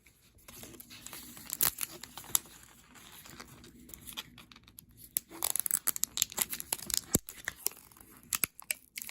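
Packaging being torn open and crinkled by hand as a blind-pack miniature toy is unwrapped: a scattered crackling that turns into a dense run of crinkles and snaps about five seconds in.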